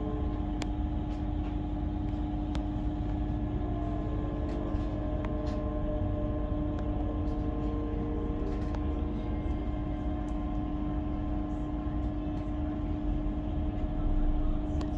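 Inside an electric train: a steady low rumble under a hum held at several fixed pitches, with scattered faint clicks.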